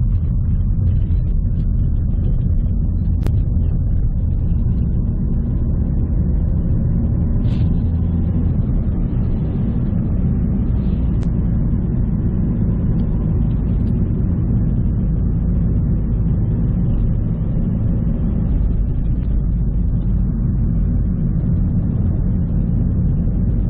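Steady low rumble of road and engine noise inside the cabin of a moving Ford Focus.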